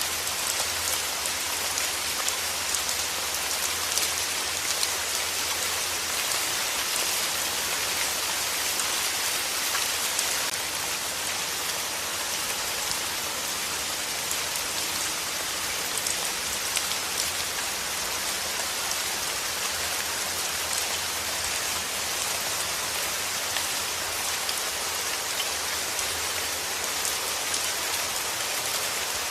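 Steady rain: an even hiss of falling rain with many small drops ticking on a surface.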